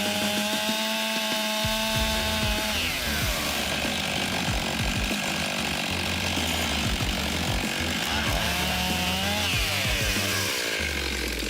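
Two-stroke chainsaw cutting a dead ash tree. It runs at high revs for the first few seconds, then its pitch falls off about three seconds in and gives way to a rougher cutting noise. It revs up again about eight seconds in and falls away once more near ten seconds.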